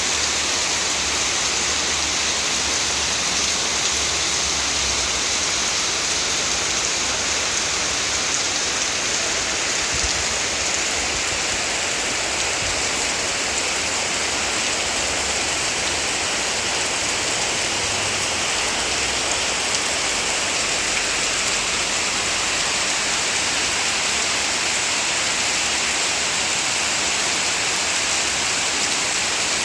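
Heavy rain pouring down steadily, a continuous hiss of rain falling on surfaces.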